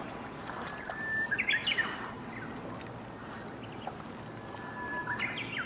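Japanese bush warbler (uguisu) singing its song twice: each time a long held whistle followed by a quick run of higher notes. Under it runs a steady hiss.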